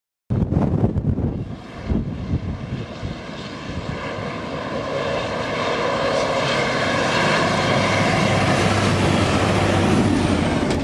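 A train approaching, its engine noise and whine growing steadily louder over several seconds and then holding loud and steady, with wind buffeting the microphone at first.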